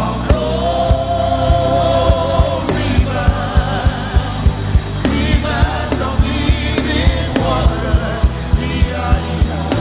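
Gospel praise music: a sung vocal line with wavering, held notes over a band with bass and a steady, fast drum beat.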